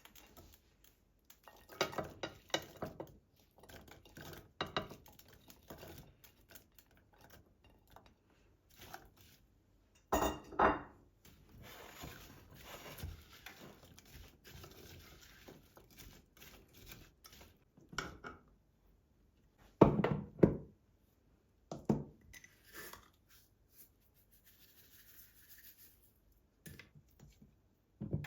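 Household handling sounds: scattered knocks, clinks and rustles of objects being picked up and set down, with louder clatters about ten seconds in and about twenty seconds in.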